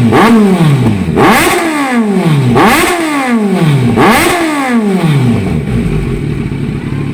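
Kawasaki Z900 inline-four with an SC-Project aftermarket exhaust being revved: four quick throttle blips about every one and a half seconds, each climbing sharply and falling back. The engine then settles to a steady idle about five and a half seconds in.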